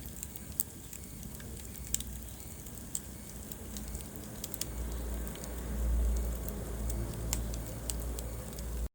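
Wood fire burning in a fireplace, crackling with irregular sharp pops over a low steady rumble of the flames. The sound cuts out for an instant near the end.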